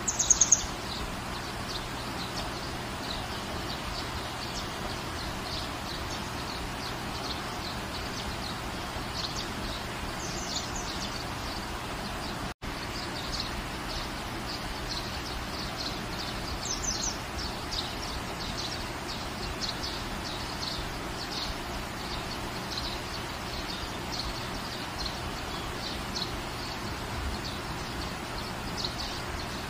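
Steady rain falling, with small birds chirping over it. A loud burst of chirps comes right at the start, and louder calls again about ten and seventeen seconds in. The sound cuts out for an instant about twelve seconds in.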